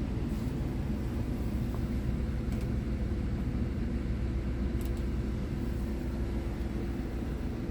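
Diesel engine of a 2011 Scania R tractor unit running at an even speed.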